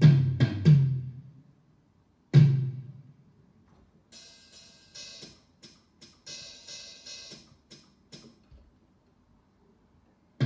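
Drums played in a pattern: a quick run of heavy low drum hits, about four a second, that dies away in the first second. A single heavy hit with a long decay comes about two seconds in, then lighter, hissy cymbal-like strokes. A short pause follows before the heavy hits start again at the very end.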